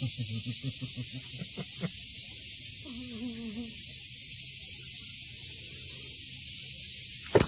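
A steady high hiss, with a brief faint voice-like sound about three seconds in.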